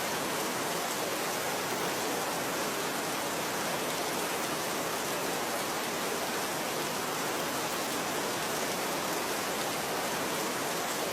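Steady rain falling, a constant even hiss with no thunder or breaks.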